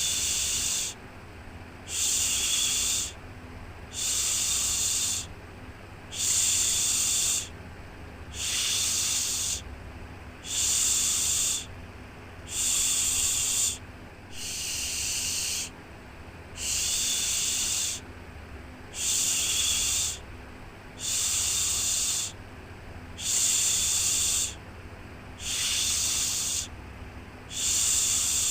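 Rhythmic "shhh" shushing for a baby, one long hushing sound about every two seconds, over a steady low background noise.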